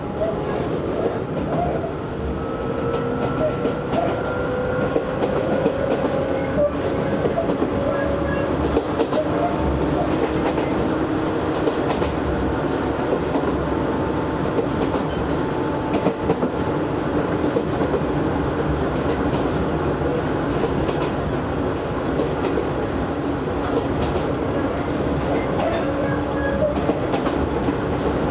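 Interior running sound of an Izu Hakone Railway Series 3000 resistance-control electric train under way. The traction motor and gear whine rises slowly in pitch through the first several seconds, then holds steady, over a constant rumble with the wheels clicking over rail joints.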